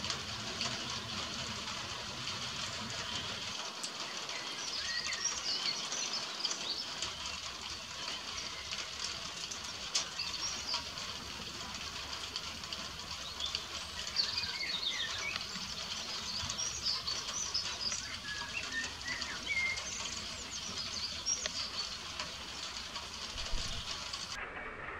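Birds chirping and calling in short scattered phrases over a steady hiss of rain, with a few sharp clicks.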